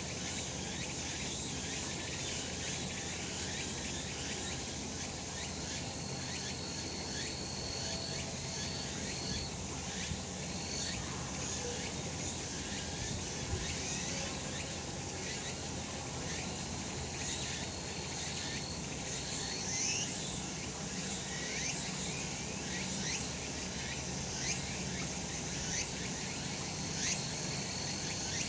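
A chorus of cicadas singing steadily, with many short high chirps running through it. Twice, a thin high tone is held for a few seconds.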